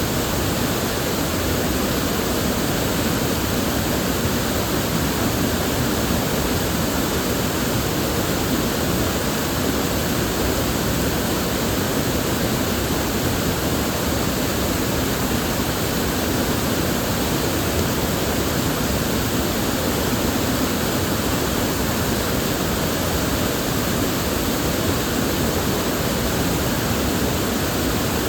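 River water flowing, a steady, unbroken rush with no change in level.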